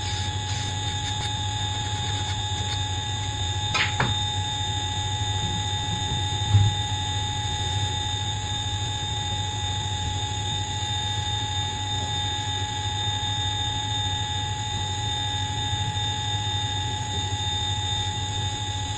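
A machine running steadily, with a constant low motor hum and a high whine. There is a short squeal about four seconds in and a single knock about six and a half seconds in.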